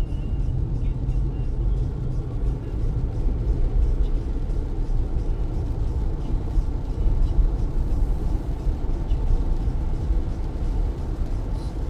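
Car driving in heavy rain: a steady low rumble of road and tyre noise on wet pavement, with the hiss of rain.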